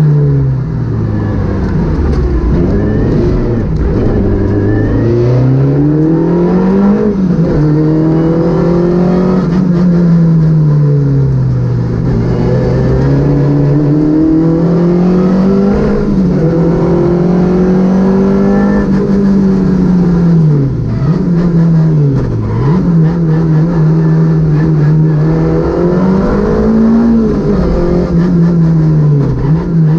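Citroën Saxo VTS rally car's 1.6-litre four-cylinder engine heard onboard at speed, revs climbing and falling again and again as it is driven hard through the gears, with quick sharp drops in revs near the end where the driver lifts off or changes down.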